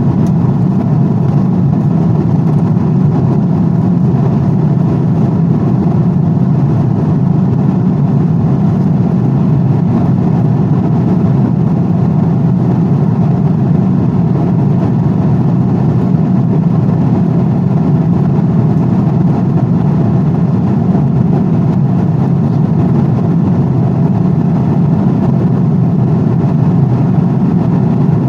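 Steady airplane noise: an even, unchanging low rumble with no breaks or changes.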